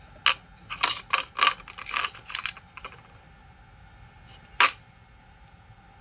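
A quick run of light clicks and clatter, then a single sharp click about two seconds later: hard parts and tools being handled while the Makita DHR280 rotary hammer is worked on.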